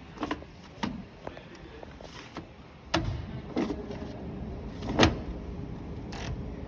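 A series of irregular knocks and clunks, about six of them, the loudest about five seconds in.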